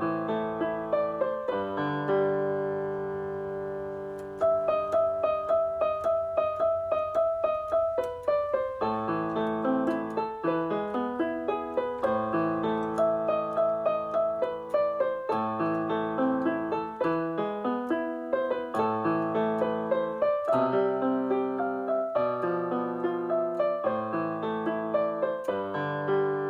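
Background music played on piano or electric piano, with sustained chords and a run of quick repeated notes.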